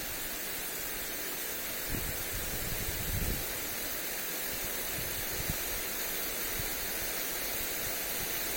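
Lawn sprinkler spraying water onto grass, a steady hiss, with wind gusting against the microphone every second or two.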